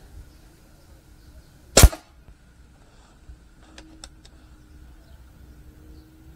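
Snowpeak P35X air rifle firing one slug: a single sharp, short crack about two seconds in. A few light clicks follow about two seconds after the shot.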